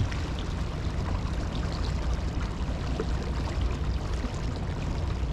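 Water rushing and lapping steadily along a moving kayak, with a heavy low rumble of wind on the microphone and a single knock right at the start.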